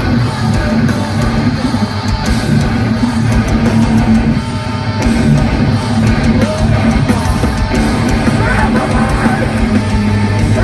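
Loud live heavy metal: distorted electric guitars over drums.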